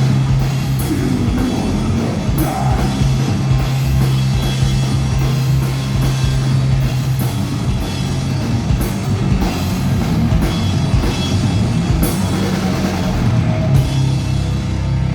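Rock band playing loud heavy rock, with drums and repeated cymbal crashes over a low held bass note and guitars.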